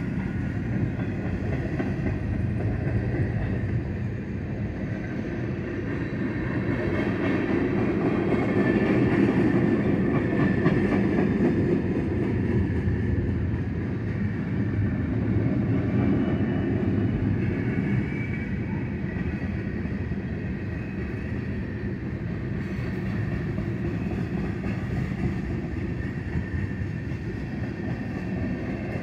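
Freight cars of a mixed freight train rolling past over a grade crossing: a steady running noise of steel wheels on rails, heard from inside a car, growing louder from about six to twelve seconds in.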